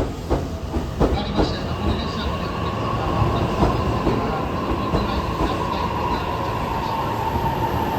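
E231 series and E233 series electric multiple-unit train arriving at a station platform: wheels click over rail joints at first, then a steady high squeal comes in over the rolling noise as the train slows.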